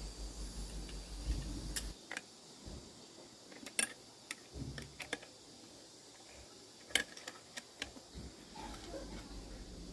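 A low pulsing hum for about two seconds, then a string of sharp, short mechanical clicks and taps, irregularly spaced, as of small hard parts or tools being handled.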